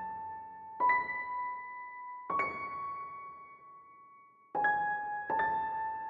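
Background music: a slow piano line of single notes, each struck and left to ring out, about four in the space of a few seconds.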